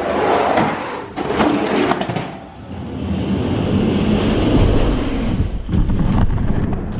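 Toy diecast monster trucks released and rolling down a plastic race track: a quick clatter of knocks and rattles for about two seconds, then a steady rolling rumble.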